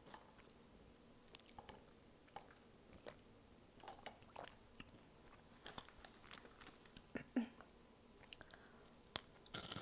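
Close-miked mouth sounds of a person eating: chewing with scattered crunches and wet clicks, at a low level.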